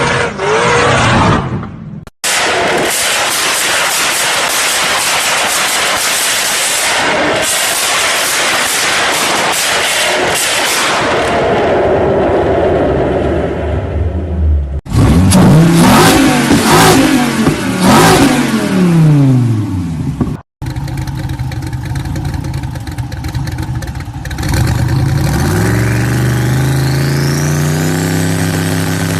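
Muscle car engines in several spliced clips: first a long stretch of loud, steady engine noise, then an engine revved up and down several times, then an engine revving up and holding with a thin whine that climbs in pitch.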